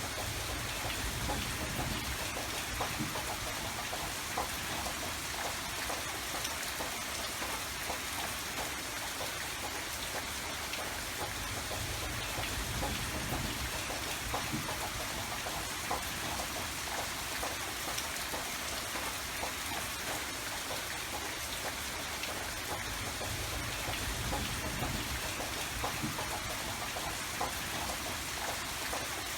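Steady rain falling, a continuous hiss dotted with small ticks of individual drops, over a low rumble that swells and fades every few seconds.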